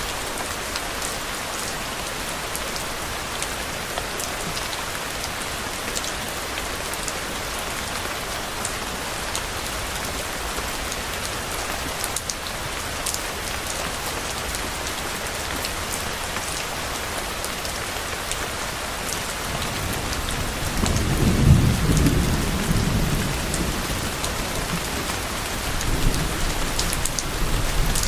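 Steady rain falling on a surface, with scattered individual drops ticking. About two-thirds of the way through, a low rumble of distant thunder swells and fades over a few seconds, and a fainter rumble follows near the end.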